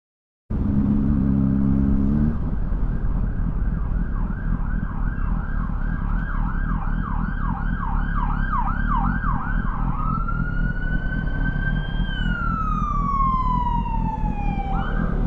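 Emergency vehicle siren over motorcycle engine and wind noise: a fast up-and-down yelp from about four seconds in, changing about ten seconds in to a slow wail that rises, then falls steadily in pitch near the end.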